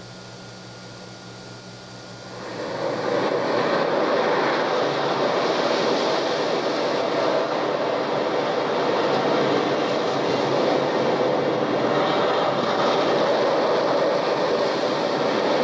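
A recorded sound effect played from cassette on a 1976 Sony TC-520CS. Over tape hiss and a low hum, a loud, steady rushing noise fades in about two and a half seconds in and holds.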